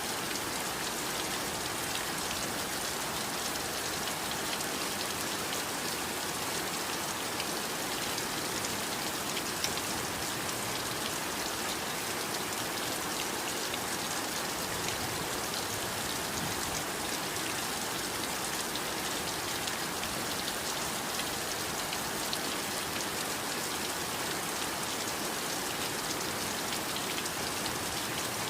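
Heavy rain falling steadily: an even hiss dotted with many small drop ticks, unchanging throughout.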